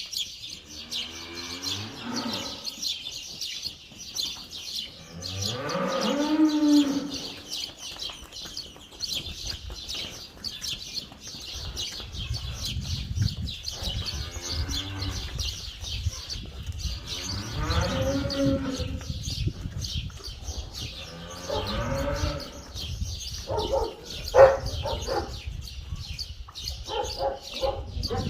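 A cow mooing, about five long calls that rise and then fall in pitch, over constant high chirping. Near the end a dog barks several times.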